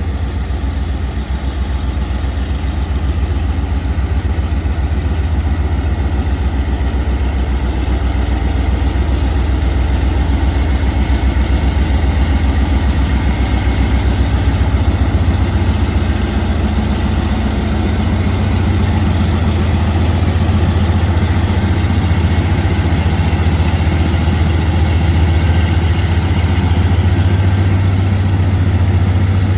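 Diesel locomotive engine running steadily with a deep, even throb, its pitch shifting slightly about two-thirds of the way through.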